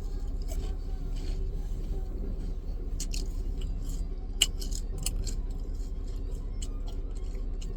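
Someone chewing a thick, crunchy cinnamon-sugar churro, with scattered short crisp crunches over a steady low hum.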